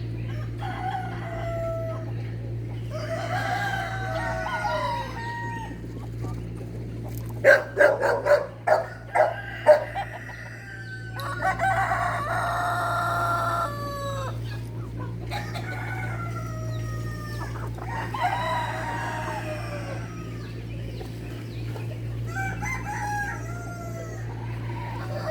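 Roosters crowing again and again, one long call after another, over a steady low hum. A quick run of sharp knocks, the loudest sounds, comes about seven to ten seconds in.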